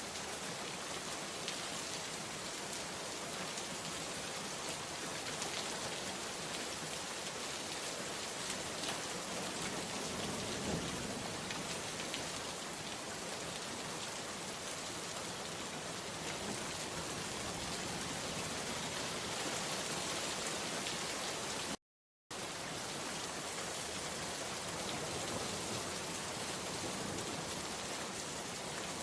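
Steady, even rainfall with dense drops pattering. About two-thirds of the way through, the sound cuts out to total silence for a fraction of a second, then resumes unchanged.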